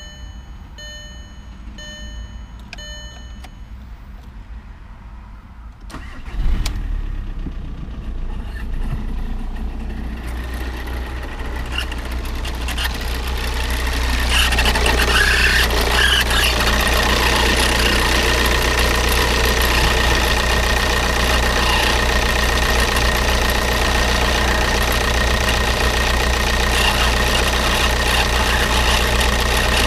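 Four short beeps, then the Škoda Octavia's 1.9 TDI diesel engine starts about six seconds in and runs. From about ten seconds a steady high whine and a rising mechanical noise build up over a few seconds and then hold: the strange noise that the owner links to the power steering or alternator belt drive.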